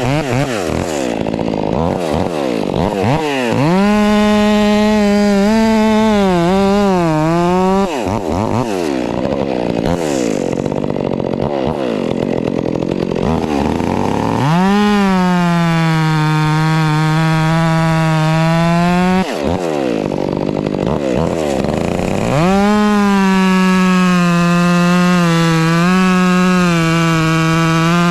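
A 400c two-stroke chainsaw at full throttle bucking maple and chestnut oak logs into firewood. Its pitch sags and holds lower in three long cuts, with the throttle easing off and rising again between them, about eight and twenty seconds in.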